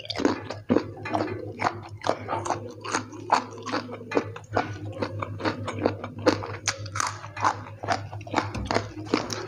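Close-up crunching and chewing of raw vegetables (lalapan), with sharp crunches coming two or three a second. A steady low hum runs underneath.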